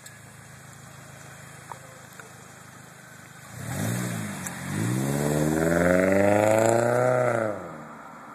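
2010 Toyota Corolla S engine idling quietly through a Magnaflow aftermarket muffler, then revved. There is a short blip about halfway through, then a longer rev that climbs, holds briefly and drops back to idle near the end.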